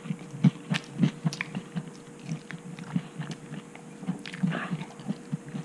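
Close-up chewing of a mouthful of bean-patty veggie sandwich on wheat bread, moist mouth sounds with sharp little clicks and crunches, about two or three chews a second.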